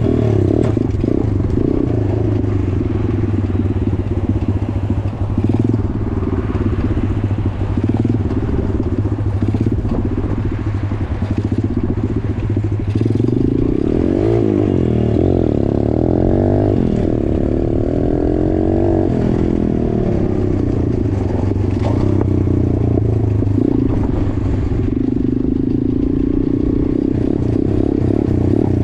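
Small straight-piped motorcycle engine running under way. Its note is steady, then rises and falls a few times through the middle stretch as the revs change.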